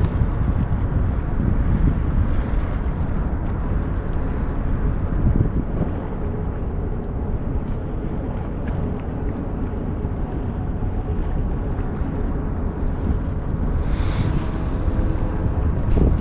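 Wind buffeting the microphone, a steady low rumble, with water moving around the kayak.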